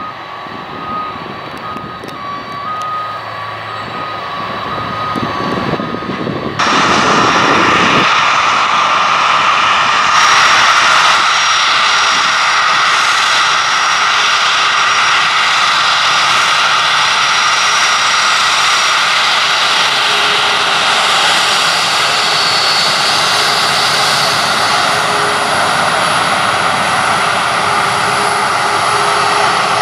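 Jet airliner engines running loud and steady, with a high whine over the roar. The noise jumps up suddenly about seven seconds in, after a quieter stretch of engine noise with a faint on-off tone.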